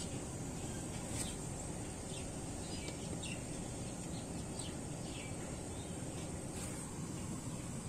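Steady low background noise with faint, scattered bird chirps, and two light clicks, one about a second in and one late.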